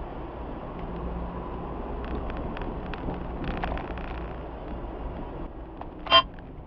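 Car driving noise, a steady road rumble and wind hiss, with a few faint clicks. About six seconds in comes one short, loud, high-pitched beep.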